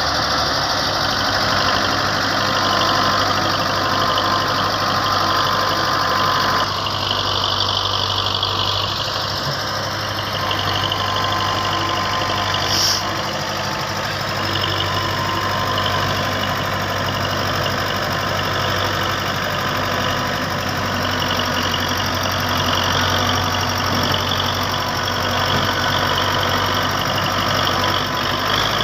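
Belarus 510 tractor's diesel engine running steadily.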